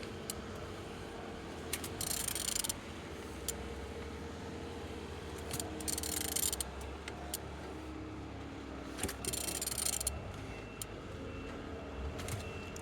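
BMW N47 D20A four-cylinder diesel engine being turned over by hand with a wrench at the crankshaft, with four short bursts of ratcheting and scraping over a steady low hum. It turns freely, a sign the engine is not seized.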